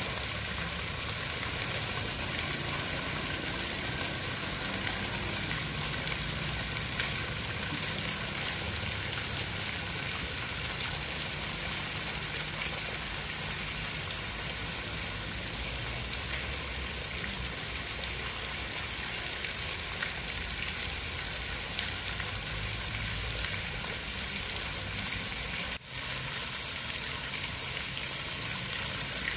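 Steady hiss of water, rain or running water, with one brief dropout a few seconds before the end.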